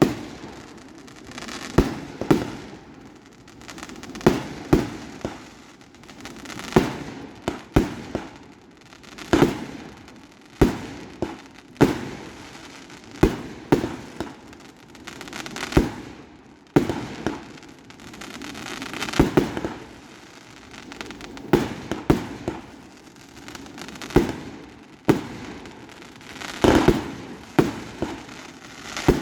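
Fireworks display: aerial shells bursting one after another, a sharp bang every second or two, each trailing off in a rolling echo.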